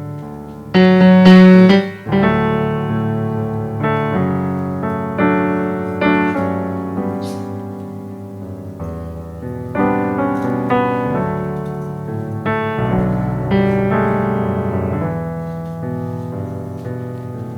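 Keyboard playing slow piano chords, a new chord struck every second or two and left to ring, the loudest about a second in.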